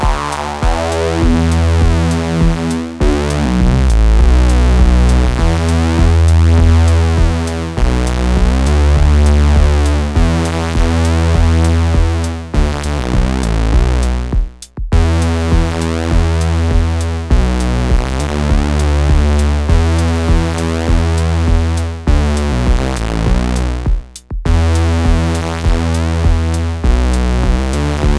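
Eurorack synthesizer patch run through the Swenigiser Proto VCF/A filter and VCA, its input driven hot for a gritty filtered tone, playing a repeating sequenced bass line over a steady ticking pulse. The sound cuts out briefly twice.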